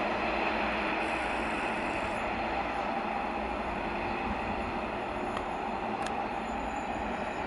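Electric multiple unit approaching along curved track, a steady noise of the train running on the rails, with a short click about six seconds in.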